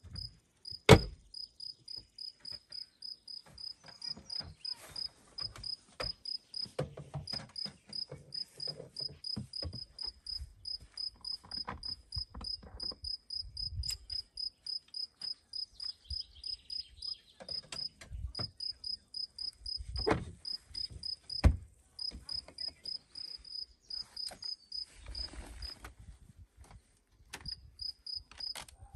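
Cricket chirping steadily at about three chirps a second, high-pitched and even, with a few short pauses. A few sharp knocks break in, the loudest about a second in and two more about two-thirds of the way through.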